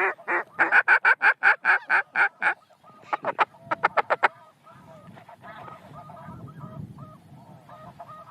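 A loud, rapid run of waterfowl calls, about five a second for two and a half seconds, then a shorter, quicker run. After that a flock of snow geese keeps up a fainter, steady calling.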